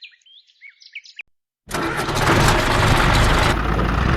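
A few faint bird chirps, then after a sudden cut a loud, steady motor or engine sound with a low hum starts abruptly and keeps running.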